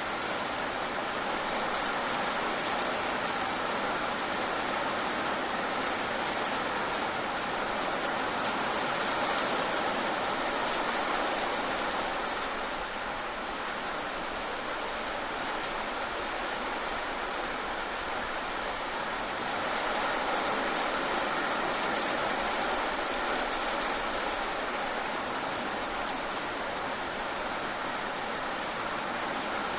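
Steady rain falling: an even hiss dotted with many small drop hits.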